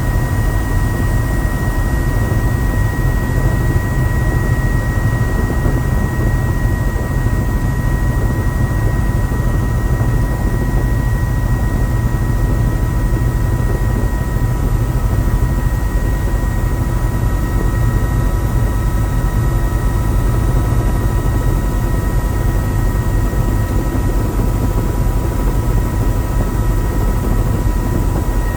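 Helicopter in steady flight: a loud, even low rumble under a haze of noise, with steady high whining tones and another tone joining about halfway through.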